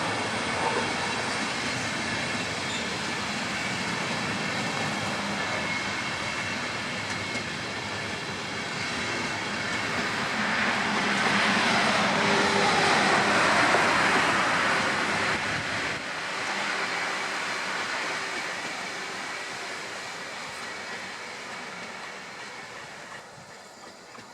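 Train running through a station: rushing wheel and rail noise swells to a peak about halfway, then dies away.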